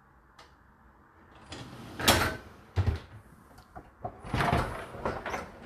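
Dishwasher door and racks being handled: two spells of rattling slide and clatter, like a basket rolled out on its rails, with sharp knocks in between.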